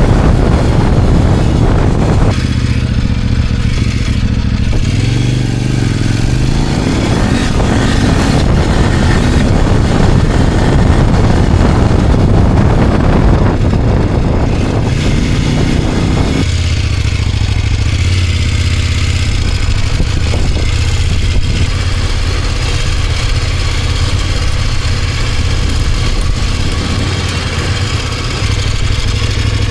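Kove 800X Pro motorcycle engine heard from the rider's seat while riding. The revs rise through the first several seconds, then it runs steadily from about halfway. The engine is kept at light load and modest revs for break-in.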